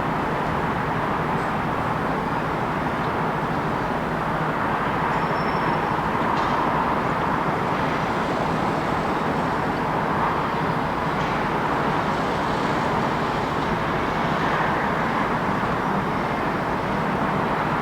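Steady city ambience: a continuous wash of vehicle noise with no distinct events standing out.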